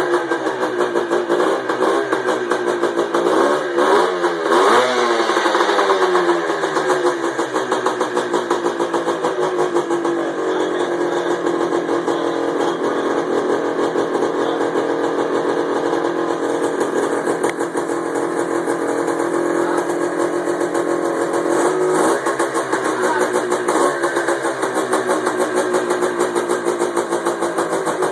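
1972 Yamaha two-stroke dirt bike engine running: blipped up and down several times in the first few seconds, then settling to a steady idle, with a couple of short throttle blips later on.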